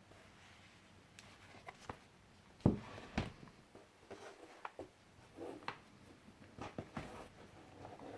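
Pages of a handmade paper junk journal being turned and handled: scattered light rustles and taps, with one louder thump a little under three seconds in.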